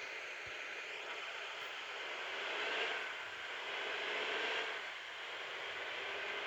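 Bus engine running steadily while warming up, a hissy drone with a faint whine over it that swells slightly twice.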